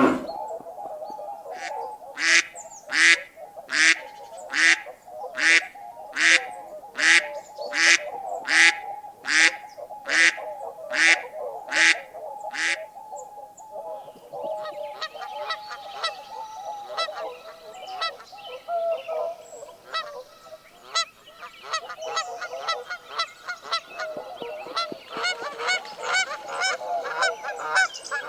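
Goose honking: a run of about fifteen loud honks at an even pace over the first dozen seconds, then softer, quicker calls from several birds over a constant chatter of fowl.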